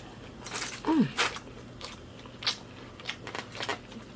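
Close-up eating sounds of someone biting into and chewing a taco: irregular crunches throughout, with a brief falling hum from the eater about a second in.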